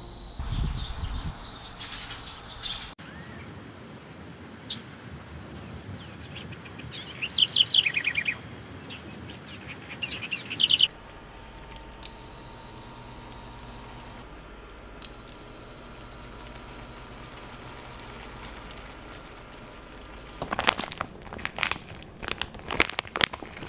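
Outdoor garden ambience with birds calling: two loud runs of quick, high, falling chirps partway through, over a steady faint hiss. Near the end comes a short run of sharp clicks and knocks.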